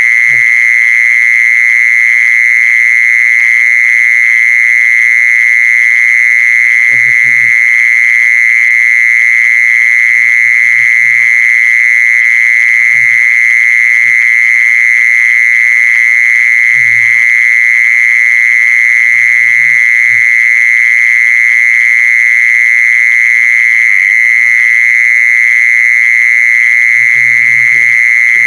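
An insect known in Thai as 'jee-son' calling with a loud, continuous, high-pitched trill that holds one steady pitch without a break. Faint low sounds come and go in the background every few seconds.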